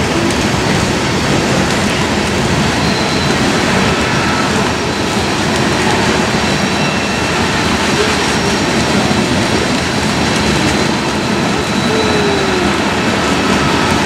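Loaded covered hopper cars of a Union Pacific grain train rolling past, a steady rumble of steel wheels on rail.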